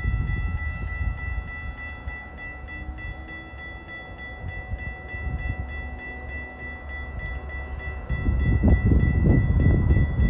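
Low rumble of a distant train with a thin, steady high-pitched whine over it, the rumble growing louder about eight seconds in.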